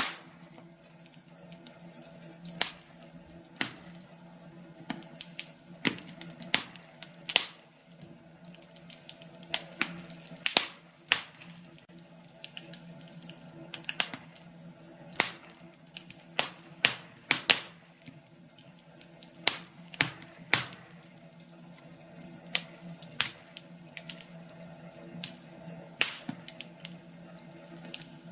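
Wood fire crackling, with irregular sharp pops and snaps, several a second at times, over a steady low rush.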